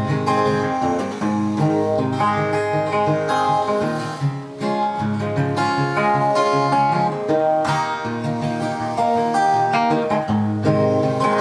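Acoustic guitar playing an instrumental break in a country song, strummed chords with picked melody notes.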